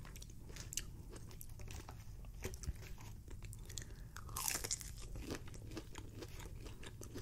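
Close-up mouth sounds of chewing, with scattered crunches and a louder crunchy bite into a breaded chicken nugget about four seconds in.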